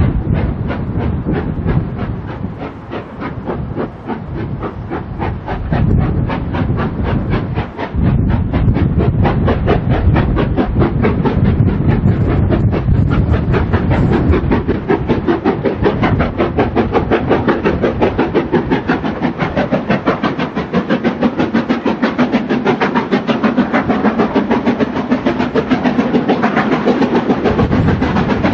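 Steam train running with a rapid, even rhythmic beat and some hiss. It gets louder and steadier about a quarter of the way in.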